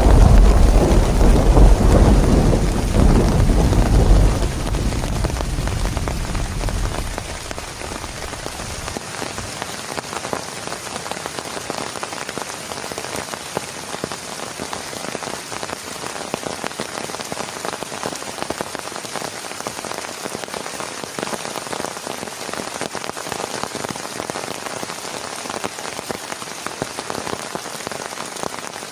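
Thunder rumbling and dying away over the first several seconds, then heavy rain falling steadily, with many individual drops pattering.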